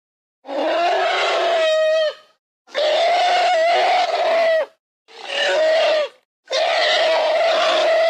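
Woolly mammoth sound effect: four harsh, loud calls, each one to two seconds long with a steady high tone running through it and brief gaps between them, the last still sounding at the end.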